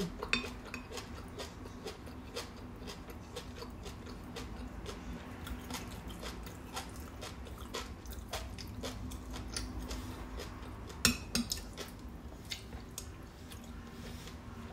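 Close-up chewing of crunchy fish roe, a steady run of small wet crackles and clicks. A couple of louder, sharper clicks about eleven seconds in.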